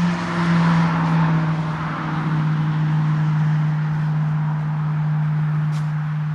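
Highway traffic: a continuous drone of cars passing, with a steady low hum running under it that dips slightly in pitch about two seconds in. A brief light tick about six seconds in.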